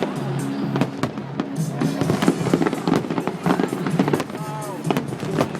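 Fireworks going off in rapid bangs and crackles over loud music.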